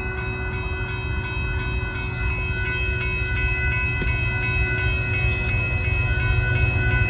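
Railroad crossing bell ringing steadily over the low rumble of an approaching Union Pacific coal train's diesel locomotives. The rumble grows louder throughout.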